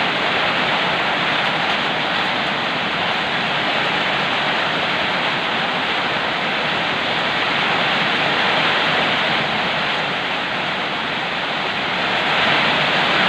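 Heavy rain falling, a steady dense hiss that swells slightly near the end.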